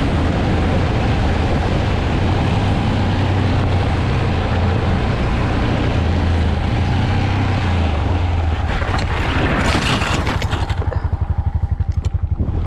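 Motorcycle running on the road, a loud steady low drone under a rushing noise. Near the end the sound breaks into a fast pulsing, about six beats a second.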